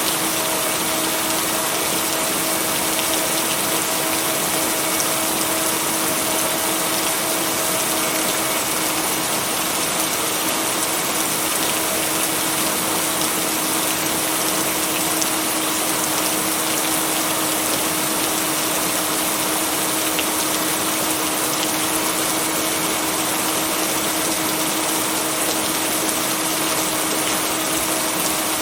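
Steady rain falling, an even hiss at a constant level, with a steady low tone running underneath that fits blended binaural-beat tones.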